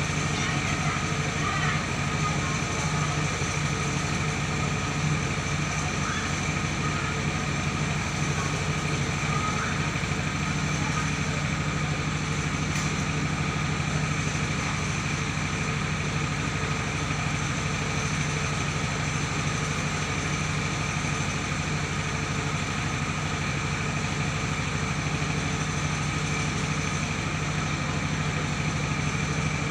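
Mobile rice milling machine running steadily: a continuous engine drone with constant higher whining tones from the mill, unchanging throughout.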